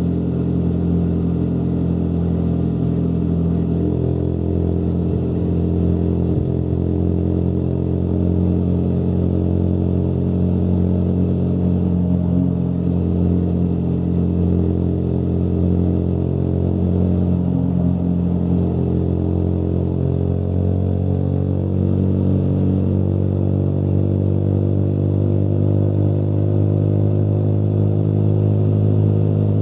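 Motorcycle engine running steadily under way, its pitch drifting only slightly as the bike holds a cruising speed.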